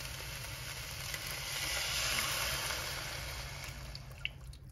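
Ground meat and tomato paste sizzling steadily in a hot skillet. Near the end, beef broth starts pouring in from a carton and the sizzle fades.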